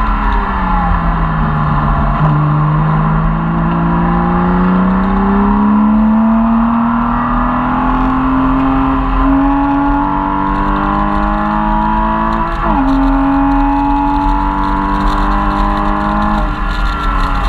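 Porsche Cayman S flat-six engine heard from inside the cabin on track. The engine note falls off at first, then climbs slowly for several seconds as the car accelerates. About three-quarters of the way through it drops suddenly at an upshift, holds fairly steady, and drops away near the end as the driver lifts.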